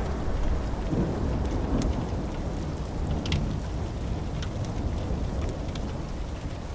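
Thunder rumbling low and slowly dying away over steady rain, with scattered sharp crackles from a wood fire.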